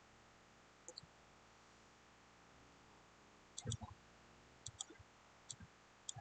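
A handful of scattered computer mouse clicks, some doubled, over a faint room hiss; the loudest come a little past halfway.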